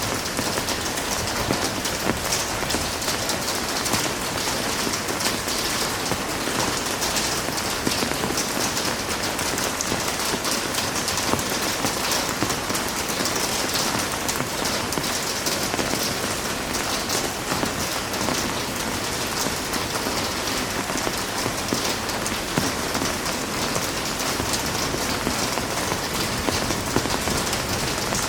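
Heavy rain falling steadily, a dense even patter of drops hitting a surface.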